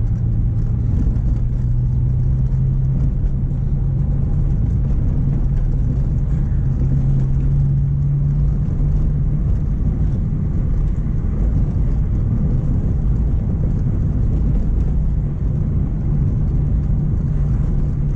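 Mk1 Renault Clio driving along, engine and road noise; the engine note climbs slowly over the first several seconds as it picks up speed, then holds steady.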